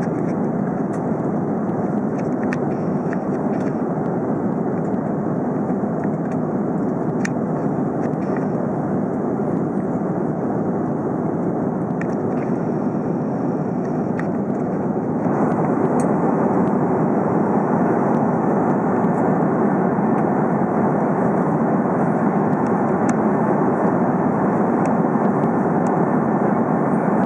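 Airliner cabin noise in flight: a steady rush of engine and airflow noise heard inside the cabin, which grows louder and brighter about fifteen seconds in.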